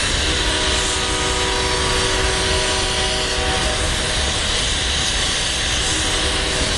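Freight train's autorack cars rolling past on steel wheels: a steady rumble and hiss from the rails, with a thin whine of several steady tones over it that fades out near the end.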